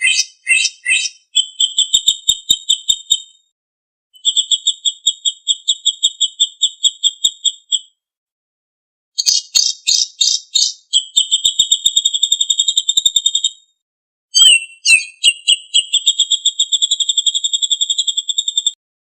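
Songbird singing: each phrase opens with a few quick notes and runs into a long, even, rattling trill. There are four such phrases, with short pauses about 3.5, 8 and 14 seconds in.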